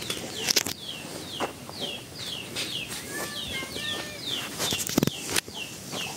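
A bird calling over and over, a short descending chirp about twice a second, with fainter whistled notes from another bird near the middle. Footsteps and a few sharp knocks, the loudest about five seconds in.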